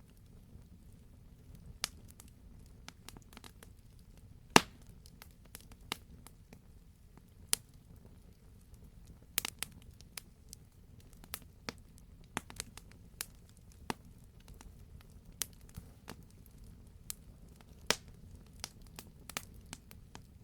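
Wood fire crackling in a fireplace: irregular sharp pops and snaps over a low steady rumble, with one louder pop about four and a half seconds in.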